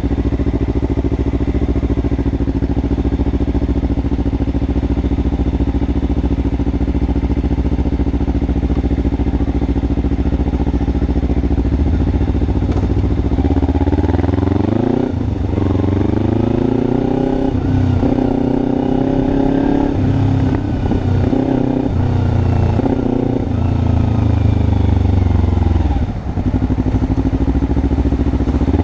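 Kawasaki Ninja 300's parallel-twin engine heard from the rider's seat, holding a steady pitch for about thirteen seconds. It then pulls away, its pitch rising and dropping back several times as the gears are shifted up.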